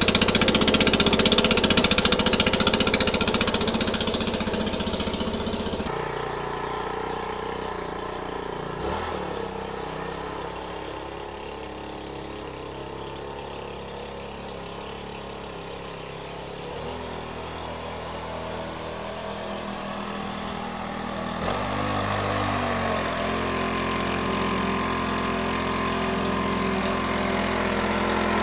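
Briggs & Stratton 14.5 hp OHV garden tractor engine running steadily after a cold start, having sat unused for more than six years. Its note shifts a few times, louder at first, quieter from about six seconds in, and louder again past twenty seconds.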